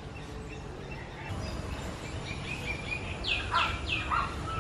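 Wild birds calling: a run of short chirps, then three quick calls that sweep downward in pitch near the end, over steady low background noise.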